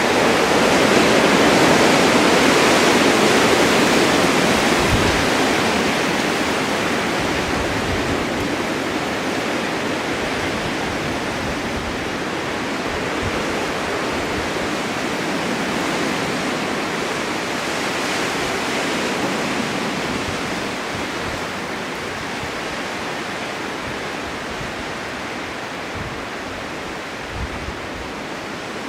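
Blizzard wind blowing snow: steady rushing noise that swells in a gust about a second in, then slowly eases, with a few brief low rumbles.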